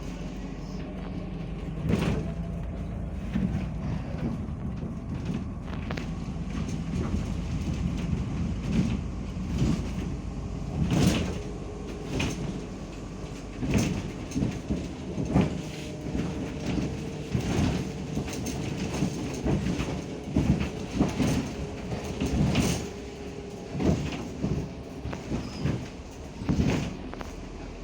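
Inside a moving MAZ 105 articulated city bus: a steady low engine drone, with the body and fittings rattling and knocking over the road, the knocks coming thick and fast from about a third of the way in.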